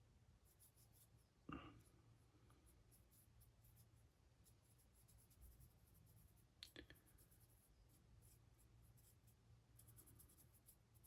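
Faint, near-silent scratching of a paintbrush being worked over a small plastic model, with two brief soft knocks, about one and a half seconds and near seven seconds in.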